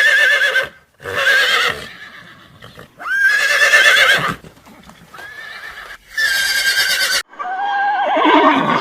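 Horse whinnying again and again: about five loud, quavering calls, each lasting around a second, with short pauses between them.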